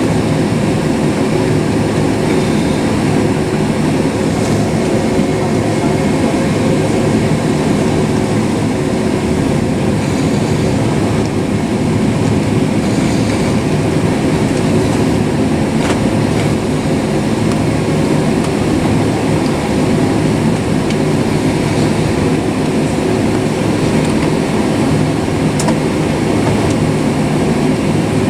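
Steady cabin drone inside a Boeing 767-400 airliner on the ground before takeoff: engines at low power and the air-conditioning hum, with a few faint steady tones and no sudden events.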